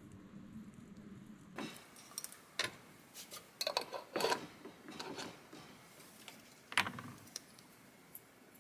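Dishes and cutlery clinking and knocking: a scattered run of light, sharp clicks, the loudest about seven seconds in.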